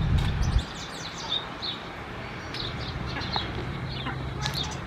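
Several wild songbirds chirping and calling over one another in quick, overlapping short notes, over a steady low hum, with a low rumble in the first half second.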